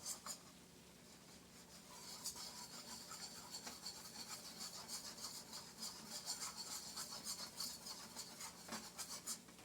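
A butter-and-flour roux being stirred in a pan, the utensil scraping the pan in quick, rhythmic strokes that start about two seconds in and stop near the end.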